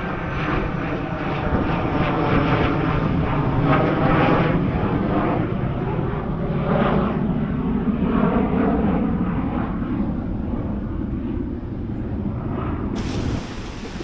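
An engine drones steadily, its pitch slowly drifting and its level swelling a few seconds in before easing off.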